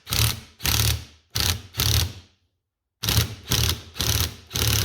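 Ratchet wrench clicking in short back-and-forth strokes, about two a second, with a pause of about a second midway, as a heated, seized nut on the carburetor is backed off.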